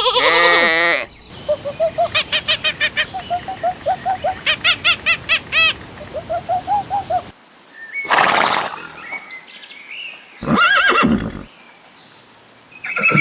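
Horse neighing: one long whinny that quavers in quick, even pulses for about six seconds. Shorter calls and a snort-like burst follow.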